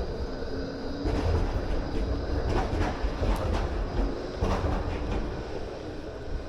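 Melbourne route 96 tram accelerating away from a stop and running along the street track, its wheels clacking over the rails in a run of sharp clacks in the middle, over a steady low rumble.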